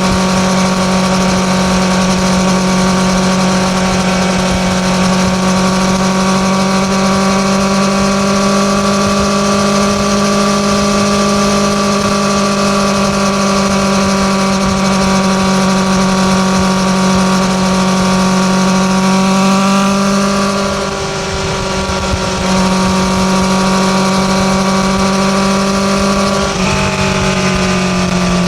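Honda CB650R inline-four exhaust, recorded from under the taillight, running at a steady, high engine speed with one held note. It eases off briefly about 21 seconds in, comes back to the same note, then drops in pitch a couple of seconds before the end.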